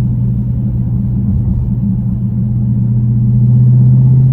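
Car engine and exhaust with the mid muffler deleted, droning steadily at a constant engine speed while cruising, a little louder near the end.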